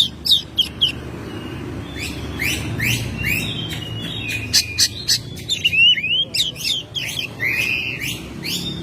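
Oriental magpie-robin singing a fast, varied song of sweeping whistled notes and sharp clicks, with a short pause about a second in.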